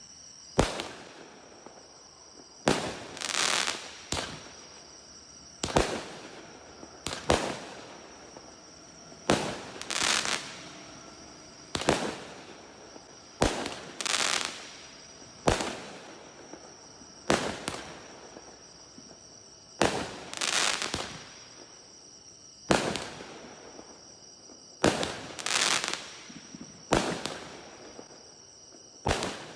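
A 25-shot consumer firework cake firing shot after shot, one every one to two seconds. Each shot is a sharp bang, and many trail off in a noisy tail of about a second.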